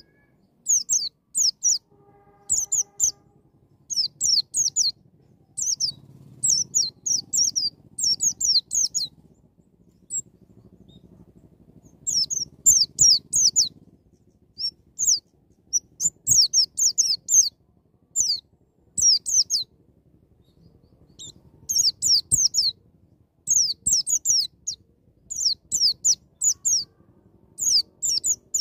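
White-eye (pleci) singing in the wild 'ngalas' style: quick volleys of high, sharp, downward-slurred notes, delivered in short bursts with brief pauses between them.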